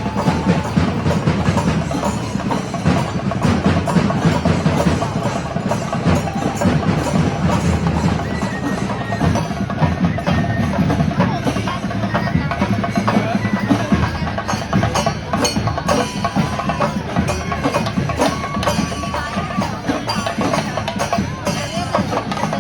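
Kerala temple festival percussion ensemble playing: drums beaten in a dense, steady stream of strokes with metallic cymbal clashes, a few wavering high tones above.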